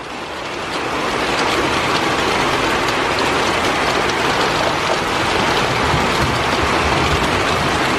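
Very heavy rain pouring down in a downpour, swelling over the first second or so and then holding steady and loud.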